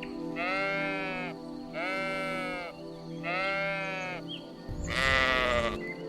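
Sheep bleating: three drawn-out bleats about a second each, then a louder, harsher fourth bleat near the end, over steady background music.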